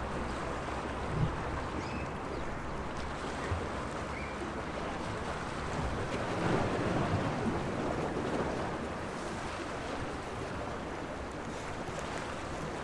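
Small sea waves washing and lapping against the shore, one wave swelling louder around the middle. A brief knock comes about a second in.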